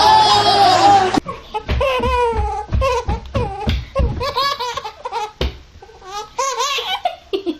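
High-pitched laughing in quick, repeated bursts, which follows a denser, loud sound that cuts off abruptly about a second in.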